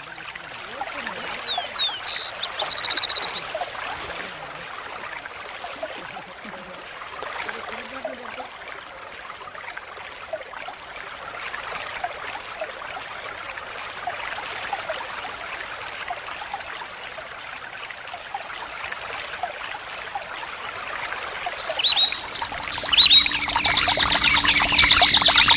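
Water flowing and trickling steadily. A short high bird call sounds twice in the first few seconds, and a louder, rapidly pulsing high call starts near the end.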